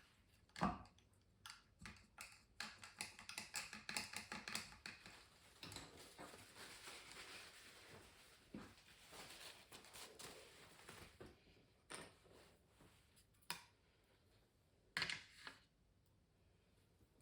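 Quiet scratching strokes of a drawing tool on canvas, with a sharp knock about a second in, a run of quick fine ticks, and a few separate taps near the end.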